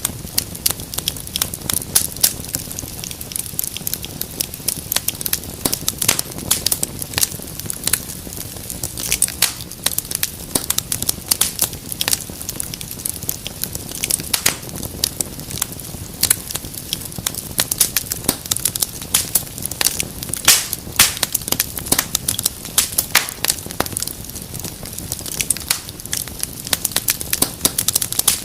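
Fireplace fire crackling continuously, with many sharp, irregular pops over a low steady rumble of the burning.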